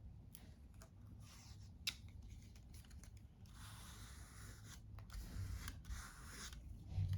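Faint paper handling as stickers are peeled from their backing and pressed and rubbed flat onto an album page: several short stretches of scraping and rustling with a few small clicks.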